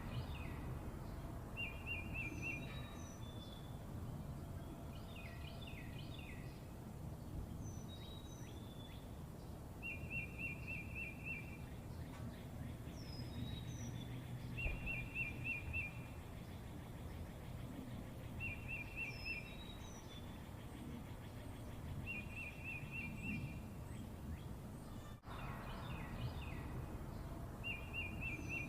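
Birds singing over a low, steady background rumble: a short, rapid trill repeats every four or five seconds, mixed with scattered chirps and short, high falling whistles.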